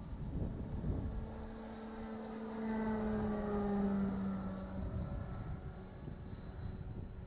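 Electric motor and propeller of a Spacewalker 2 RC model airplane flying past: a steady hum that swells about a second in, is loudest near the middle while its pitch drops slightly, then fades. Wind rumbles on the microphone underneath.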